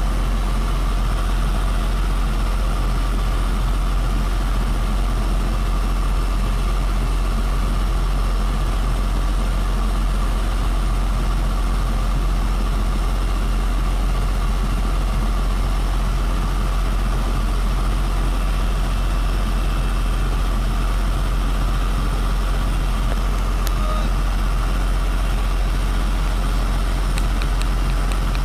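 Aircraft pushback tug's diesel engine running steadily under load, a deep unbroken drone, with a faint high steady whine over it.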